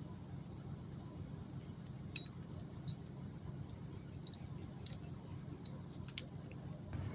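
Logging chain clinking in a handful of separate metallic clinks as it is wrapped around a log, over a low engine idle that grows louder near the end.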